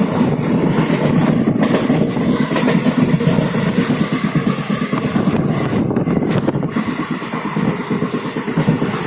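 Steady rumble of a moving vehicle in travel.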